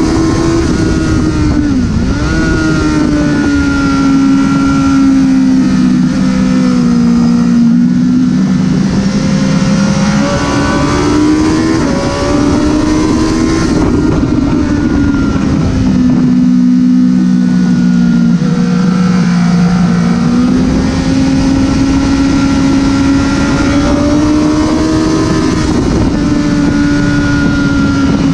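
Honda CBR1000RR's inline-four engine running hard on track, its note climbing through the revs and dropping sharply several times as the rider shifts and brakes, then winding up again.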